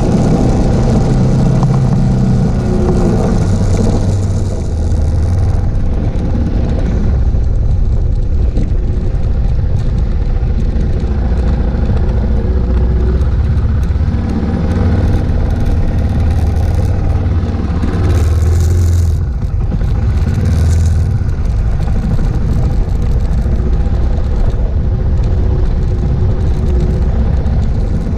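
Suzuki DR650's single-cylinder engine running under way on a gravel road, its note dropping and rising a few times as the throttle changes.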